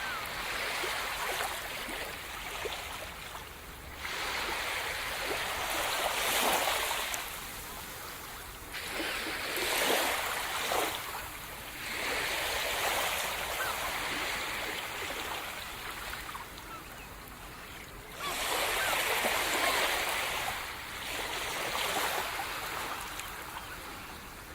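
Sea surf: waves breaking on the shore and washing back, the rushing hiss swelling with each new wave every few seconds and fading between them.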